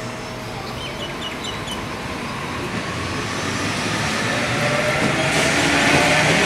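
Sydney Trains Waratah A-set electric multiple unit pulling out of the station, its running and wheel-on-rail noise growing steadily louder as it gathers speed.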